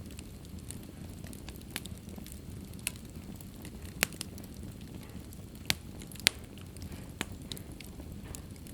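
Fire burning in a fireplace: a steady low rumble of flames with scattered sharp crackles and pops. The loudest pops come about four seconds in and again just after six seconds.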